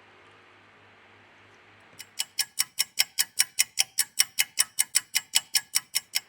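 Rapid, perfectly even clock-like ticking, about five ticks a second, starting about two seconds in, over a faint low hum.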